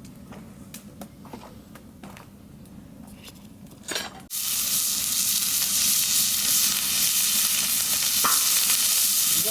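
Faint scattered clicks, then about four seconds in a sudden loud, steady sizzle as pork belly hits the hot cast-iron cauldron lid and starts frying.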